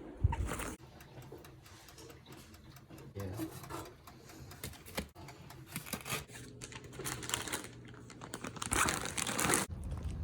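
Gear being handled and packed by hand: rustling and crinkling with scattered light clicks, and a louder rustle about nine seconds in.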